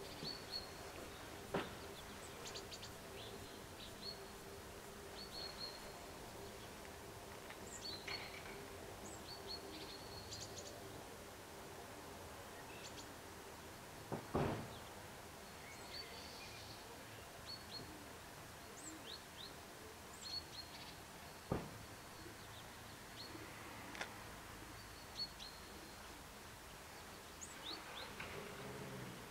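Small birds chirping in short high calls, repeated throughout, over faint background noise with a low steady hum. A few sharp knocks sound, the loudest about a third of the way in.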